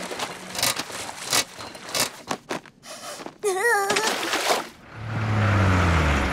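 Cartoon sound effects: a run of scattered clicks and knocks, then a short warbling, wobbling tone about three and a half seconds in. From about five seconds in comes a steady engine-like rumble whose low tones slide up and down.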